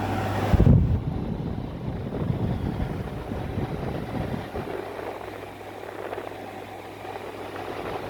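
Midea 5,000 BTU window air conditioner running with a steady hum and hiss. A loud thump comes under a second in; after it the hiss drops away and an uneven low rumble goes on, with the faint hum coming back later.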